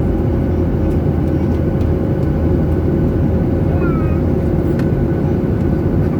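Steady drone of a jet airliner heard from inside the passenger cabin: engine and airflow noise with a faint steady hum.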